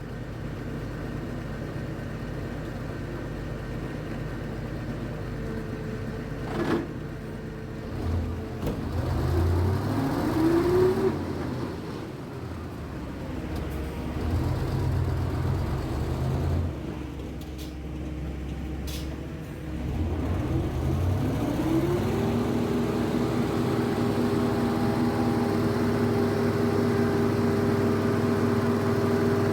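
Cement mixer lorry's diesel engine running and revving up in surges, working through deep mud, then holding at higher steady revs near the end.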